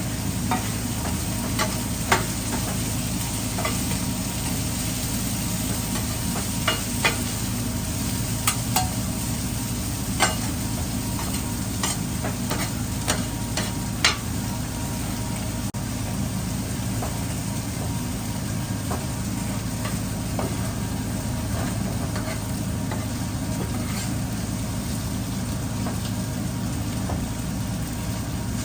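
Food frying with a steady sizzle over a low hum, with scattered sharp clicks and taps of utensils, most of them in the first half.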